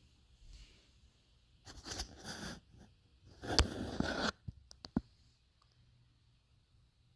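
Stool parts being handled and fitted: two stretches of scraping and rustling, the second with a sharp knock in it, followed by three short clicks or taps about five seconds in.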